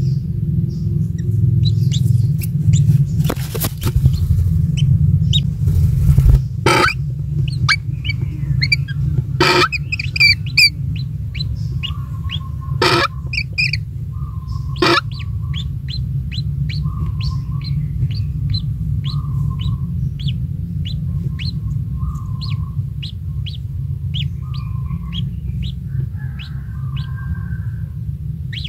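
Birds chirping: short, high chirps repeated about one to two a second, with a lower call in between. A few sharp knocks in the first half, over a steady low rumble.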